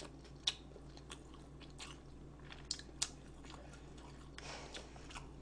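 Faint chewing and biting of food close to the microphone, with a few short sharp clicks and crunches scattered through.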